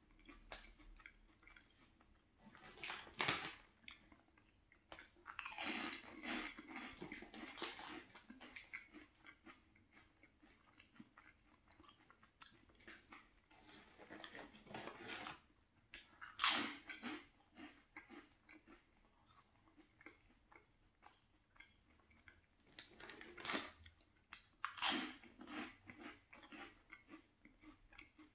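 Close-up chewing and crunching of airy fried yucca puff snacks, in uneven bouts with quiet gaps. The loudest crunches come a few seconds in, around the middle, and near the end.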